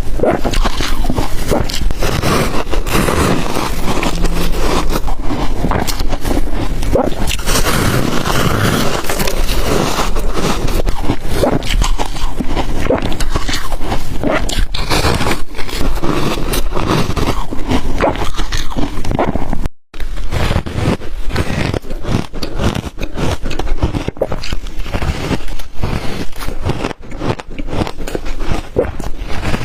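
Ice dusted with matcha and milk powder being bitten and chewed: loud, dense crunching and cracking. The sound drops out for an instant about two-thirds of the way through.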